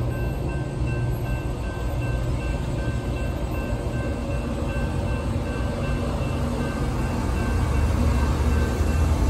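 Freight train of tank cars rumbling steadily as it clears the road crossing, with the crossing's warning bell ringing over it as an evenly repeating tone. The rumble grows a little louder near the end.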